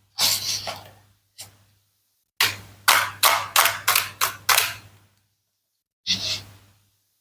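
Toy knife cutting through plastic and wooden play-food fruit, with crisp snaps and clicks as the pieces come apart: one snap near the start, a quick run of about seven in the middle, and one more near the end.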